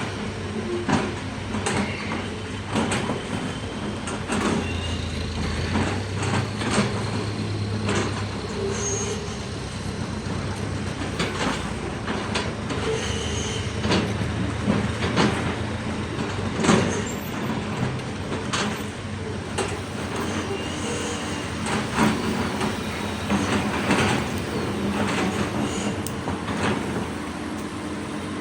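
Hydraulic excavators working in a quarry: diesel engines running under load, with frequent irregular metallic clanks and knocks from the buckets and tracks against rock.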